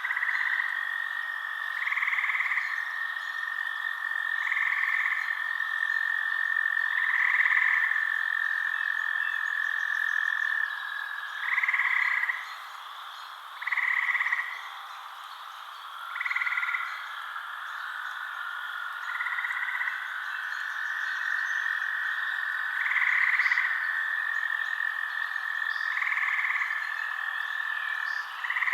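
Frogs calling at night. A long, steady, high trill runs under short, louder calls that repeat every two to three seconds, and a second, lower trill joins about halfway through.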